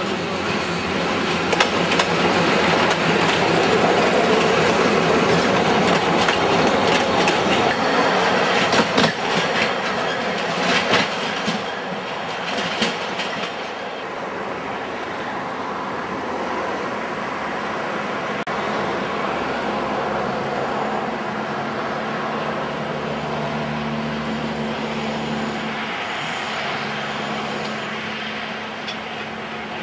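Narrow-gauge diesel locomotive and coaches passing close by, wheels clicking over the rail joints. About halfway through the sound drops abruptly to a quieter, more distant running train, with a steady low engine hum for several seconds.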